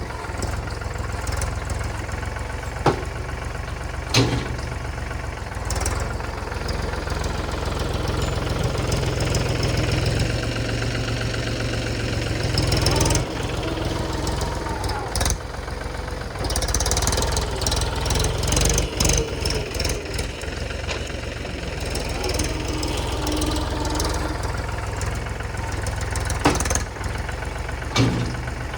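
Mahindra tractor's diesel engine running steadily while working with a loader, with a few sharp knocks and clanks over the top.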